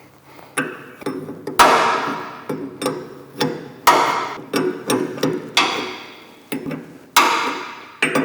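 Open-end wrench clinking against a hydraulic hose fitting again and again as the fitting is worked tight, a sharp metallic clank with a short ring about every half second.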